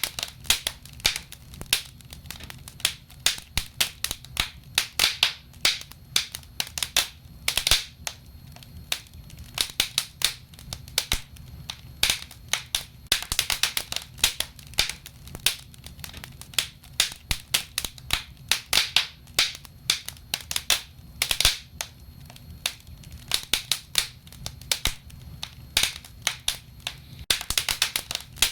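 Wood fire burning in a fireplace, crackling and popping: dense irregular snaps and pops, some sharp and loud, over a low steady rumble.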